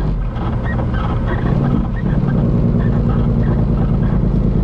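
Peterbilt semi truck's diesel engine running, heard from inside the cab. Its pitch steps up about two seconds in.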